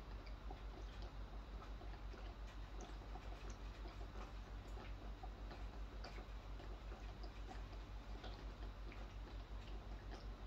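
Typhoon rain heard from indoors: scattered drops ticking and dripping, irregular and faint, over a low steady rumble.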